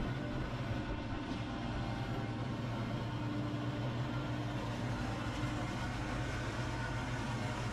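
An engine running steadily at constant speed, a continuous low hum with a noisy wash over it.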